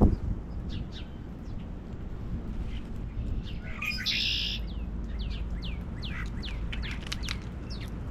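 Small birds chirping: many short, quick downward chirps, coming thicker in the second half, with a brief harsh rasp about four seconds in. A thump sounds at the very start, over a steady low rumble.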